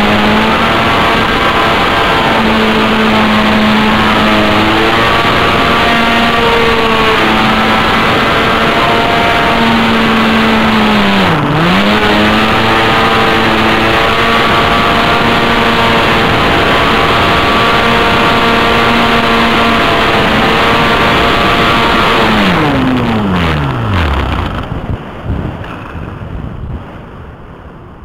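A control-line model airplane's engine running steadily at high speed, heard up close from a camcorder riding on the plane, with a brief dip in pitch about halfway through. Near the end the engine cuts out and its pitch falls away as it winds down, leaving quieter wind noise and a few knocks.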